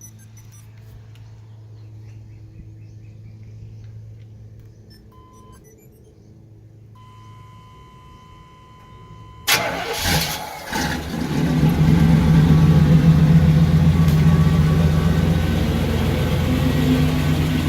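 A 1993 Chevy pickup's rebuilt 350 TBI V8 is cranked and starts about halfway through, then runs at a steady idle. Before the start a steady warning tone sounds twice, briefly and then for a couple of seconds.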